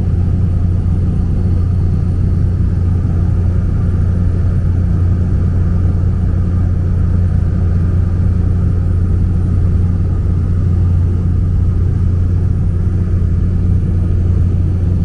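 A small plane's engine and propeller running steadily in cruise, heard from inside the cabin as a loud, even low hum.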